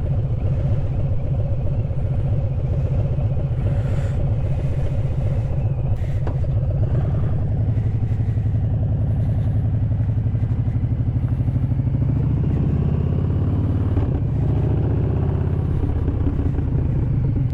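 Harley-Davidson V-twin motorcycle engine and exhaust running under way, with a steady pulsing note that shifts in pitch about two-thirds of the way through.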